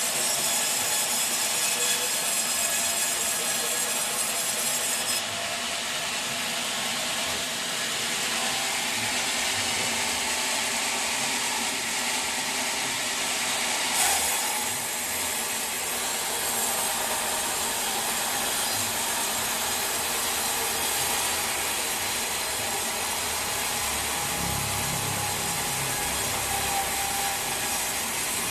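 Sawmill blade cutting steadily through a teak log, a continuous dense hiss of saw in wood. The highest part of the sound thins out about five seconds in and comes back with a brief louder moment about halfway through.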